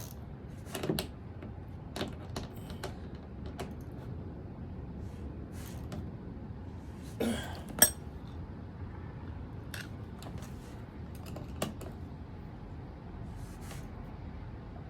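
Hand tools working a bolt into a nylock nut: scattered metal clicks and knocks, with one sharp, ringing metal clink about eight seconds in, over a steady low background rumble.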